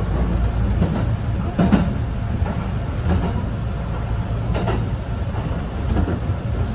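Electric express train running, heard inside the front car: a steady low rumble of the wheels and motors with sharp clacks as the wheels pass over rail joints, the loudest one just under two seconds in.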